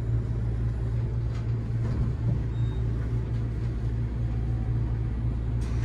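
Steady low hum and rumble inside the cabin of a Seibu Laview (001 series) electric train at the platform, even throughout, with one short click near the end.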